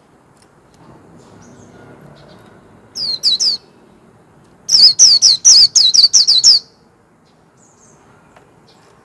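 White-eye (vành khuyên) singing: a short group of three sharp notes, each sliding down in pitch, about three seconds in, then a louder rapid run of about eight falling notes lasting nearly two seconds.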